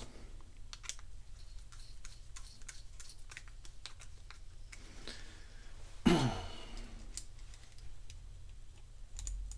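Light clicks and taps of small pressure-washer bypass valve parts being handled, with a person's sigh about six seconds in.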